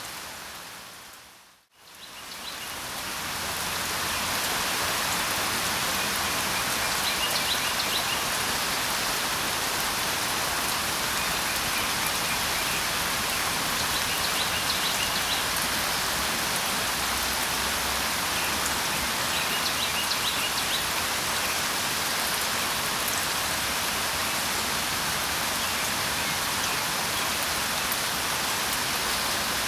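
Steady rain falling. The sound fades almost to silence about two seconds in, then fades back up, as at a splice in a looped recording. Faint, short bird chirps come through the rain every few seconds.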